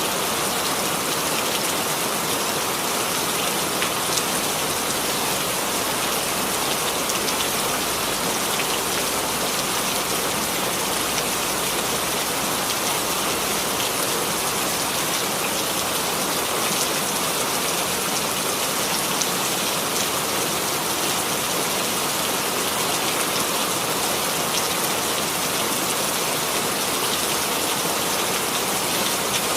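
Steady rain falling, a continuous even hiss with many fine drop patters on a surface.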